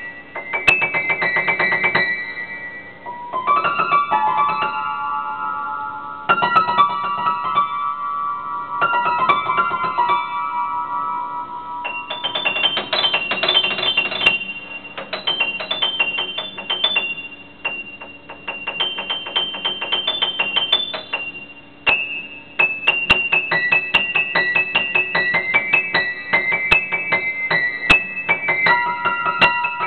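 Solo piano playing an improvised piece in the treble: quick runs of short repeated high notes, with a few slower middle-register chords early on and a low note held underneath.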